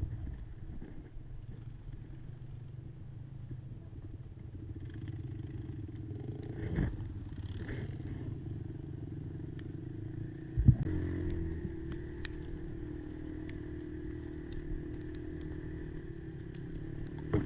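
Kymco Maxxer 300 quad's engine running steadily on the move, with clatter and small clicks from the ride. One loud knock comes about ten and a half seconds in.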